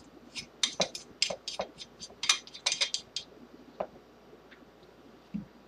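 Rail forend parts clicking and clinking against the carbine as they are slid into place: a quick run of about a dozen sharp clicks over the first three seconds, a single click a little later, and a soft low knock near the end.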